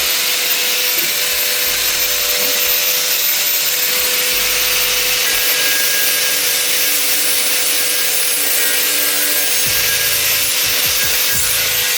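A power tool grinding or sanding a cast-iron pot lid: a steady, loud abrasive noise with a constant hum underneath, typical of stripping the surface before seasoning.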